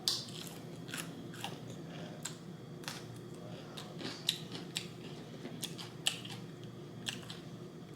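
A person chewing food close to the microphone, with irregular wet clicks and smacks of the mouth and a few crisp crunches.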